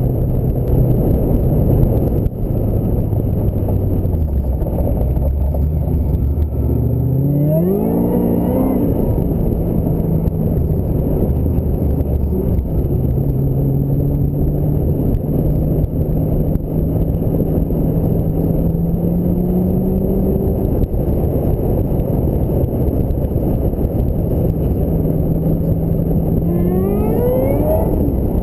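Ford Mustang SVT Cobra's V8 engine under way. Its note sinks low, then climbs steeply about seven seconds in as the car accelerates hard, holds a steady cruise, and climbs again near the end. A steady road and wind rush runs underneath.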